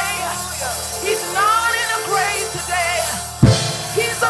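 Live gospel praise-and-worship music: singers hold wavering notes over steady low instrumental notes, with a single drum hit about three and a half seconds in.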